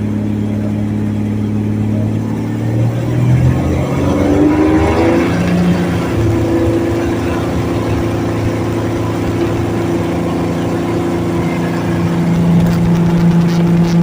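Helio Super Courier's geared six-cylinder Lycoming engine and propeller throttling up for takeoff. The pitch rises over about two seconds, starting about three seconds in, then holds steady at full power, with rougher noise building near the end.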